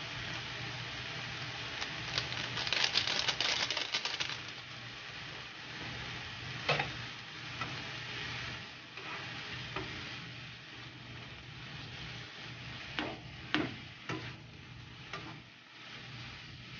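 Bean sprouts and shrimp sizzling in a frying pan as they are stirred and turned with a spatula. There is a louder rush of sizzling about two to four seconds in, and a few sharp clicks of the spatula against the pan, two of them close together late on.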